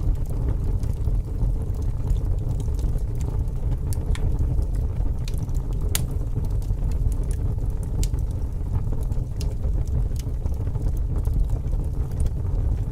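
Fire crackling: a steady low rumble with scattered sharp pops and snaps.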